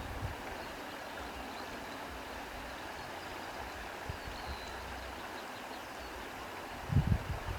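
Steady rustling hiss of wind through reeds with the wash of the sea, and a brief low rumble near the end.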